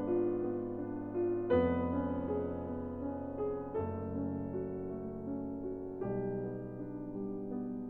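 Background piano music, gentle and slow, with a new chord struck about every two seconds over a low bass note.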